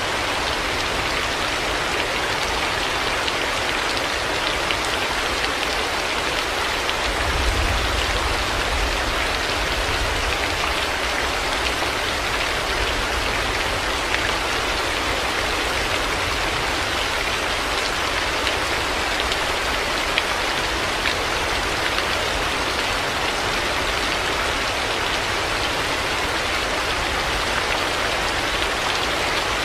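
Heavy rain falling steadily, a dense even hiss with fine drop patter. About seven seconds in, a low rumble of distant thunder swells and fades over several seconds.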